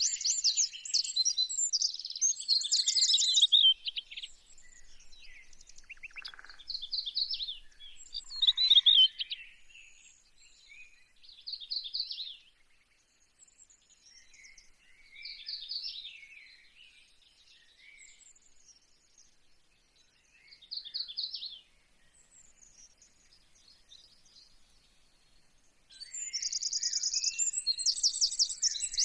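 Small birds chirping and singing in rapid high trills, dense and loud in the first few seconds, scattered and softer through the middle, and dense again near the end.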